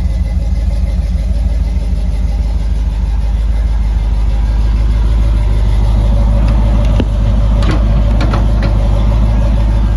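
Chevrolet 350 small-block V8 with headers and dual Flowmaster-style exhaust idling steadily, with a single sharp click about seven seconds in.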